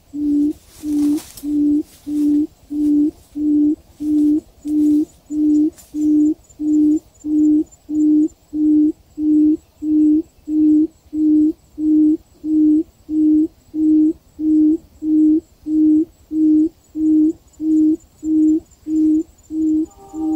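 Quail giving a long series of short, low hooting calls at one steady pitch, about one and a half a second.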